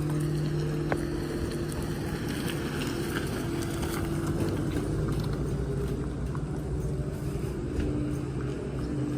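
A vehicle engine running steadily at low revs, dropping slightly in pitch about two thirds of the way through.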